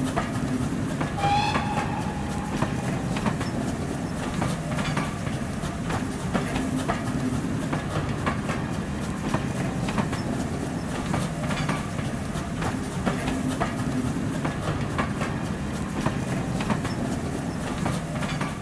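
Railway coaches rolling past, a steady rumble with the clickety-clack of wheels over rail joints. A brief high tone sounds about a second in.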